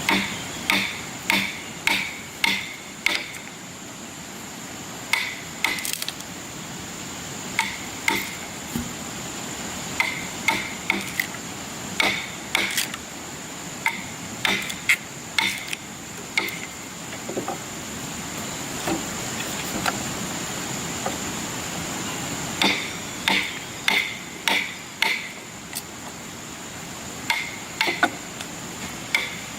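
Hand hammer striking wood in runs of several quick, ringing blows, about two to three a second, broken by pauses, including a longer gap midway. A steady high-pitched buzz runs underneath.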